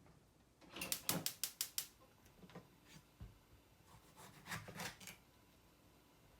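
A fast run of six or seven sharp clicks about a second in, then a second short cluster of clicks a little before the end.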